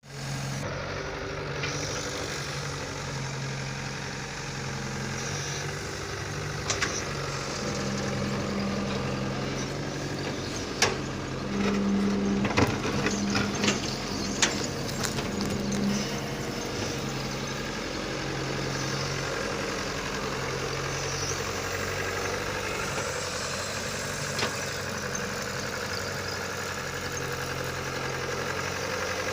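Fiat tractor's diesel engine running at a steady speed, with the throttle opened a little several times in the middle. Sharp clicks and knocks come over the engine between about 11 and 16 seconds in.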